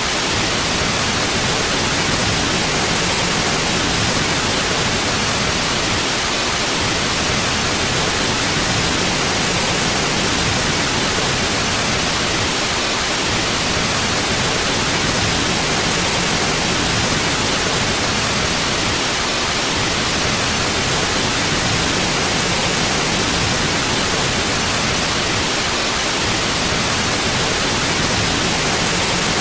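Steady, even white noise: a constant hiss spread evenly across the range, with no change.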